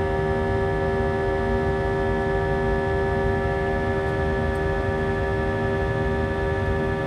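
Airbus A319 jet airliner heard from inside the cabin: a steady engine drone over a low rumble, with several steady whining tones held at a constant pitch.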